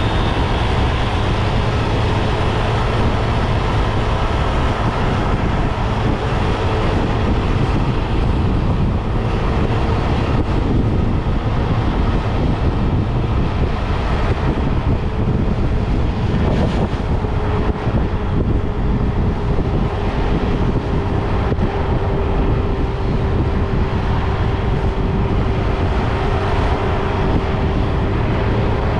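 Motorbike engine running steadily while riding, under a loud rush of wind and road noise.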